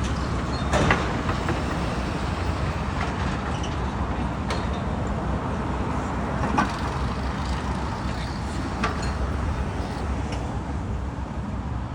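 Heavy construction machinery running steadily with a low engine rumble, and a few sharp metallic knocks here and there.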